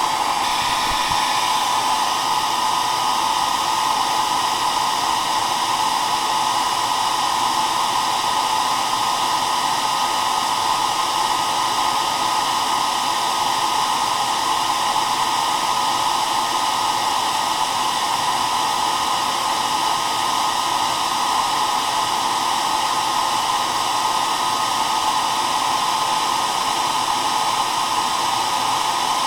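Hair dryer running steadily: a constant rush of blown air with its motor's steady hum and faint whine, unchanging throughout.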